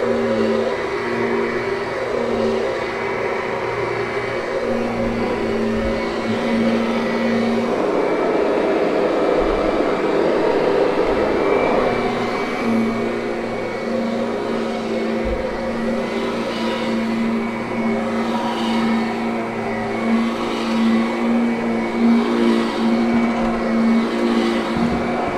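Kirby upright vacuum cleaner running steadily over thick carpet, its motor giving a steady whine. Toward the end the sound swells and eases about once a second.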